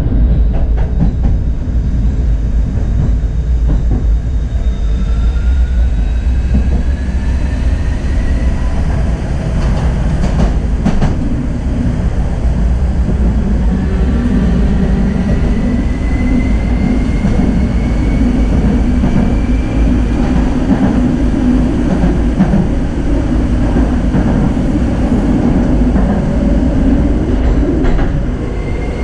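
Tram running along its track with a steady rumble of wheels on rail. The motor whine rises in pitch twice as it picks up speed. A few clicks of the wheels over rail joints come about ten seconds in.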